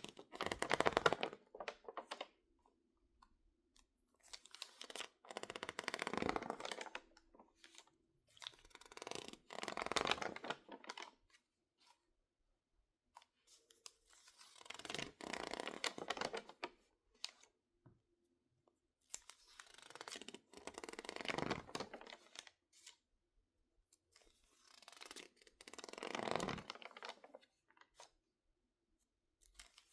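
Stiff, crinkled magazine pages, warped by drying after being misted with water, crackling and rustling as they are handled and squeezed by hand. There are six separate bouts of crinkling, each a couple of seconds long, with quiet pauses between them.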